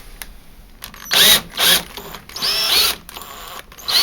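Power drill-driver running in three short bursts, its motor whining up and down, unscrewing fastenings on a tumble dryer's casing.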